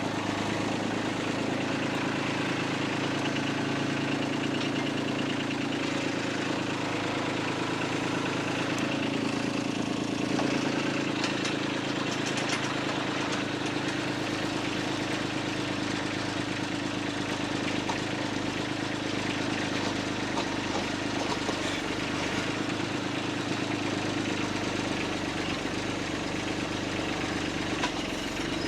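Engine running steadily at an even speed, driving a post-hole auger digging into clay ground.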